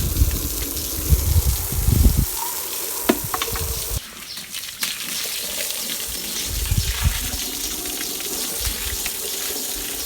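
Running water splashing steadily, with heavy low thumps in the first two seconds and again about seven seconds in, and a few sharp clicks around three seconds.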